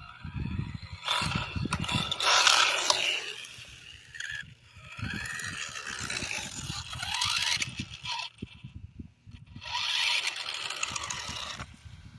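Traxxas Stampede RC monster truck being driven: its electric motor whines up and down in pitch in several bursts, with a mechanical rattle and scraping from the drivetrain and tyres, and short pauses between runs.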